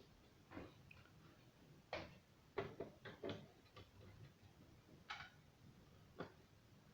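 Faint, irregular clicks and light taps, about eight in all, bunched around the middle.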